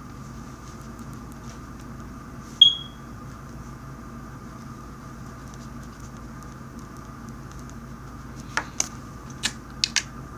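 Room tone with a steady hum, broken about two and a half seconds in by a single short, high-pitched electronic beep that dies away quickly. A few sharp clicks follow near the end.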